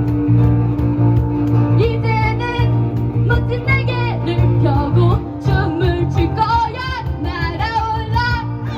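Live rock band playing: a strong bass line and cajon beat under acoustic and electric guitars, with a lead voice singing the melody from about two seconds in, its held notes wavering with vibrato.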